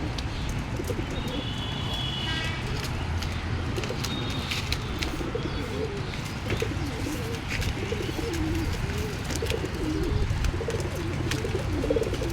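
Domestic pigeons cooing: low, wavering coos repeating through most of the stretch. A brief higher chirp comes about two seconds in, and light clicks are scattered throughout.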